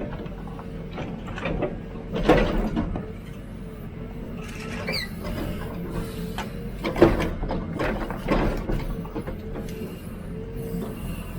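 Hidromek 102B backhoe loader digging: the diesel engine runs steadily under a steady whine. Scattered knocks and scrapes come from the bucket working the ground, the loudest about seven seconds in.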